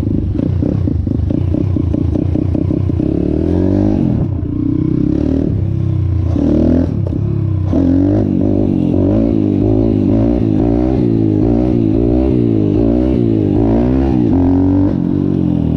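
Apollo RFN 140cc pit bike's four-stroke single-cylinder engine running as the bike is ridden. Its pitch rises and falls again and again as the throttle is opened and closed, and drops near the end.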